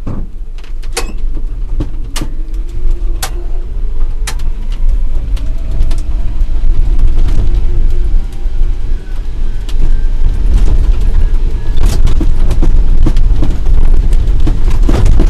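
Smith Cabac electric truck, an ex-milk float, driving heavily loaded over rough ground. A heavy low rumble runs under scattered sharp knocks and rattles, and a faint whine rises in pitch partway through.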